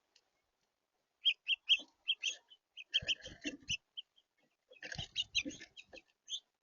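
Small birds at a bird feeder giving a quick run of short, high chirps, then two busier spells where the chirps mix with knocks and scrapes.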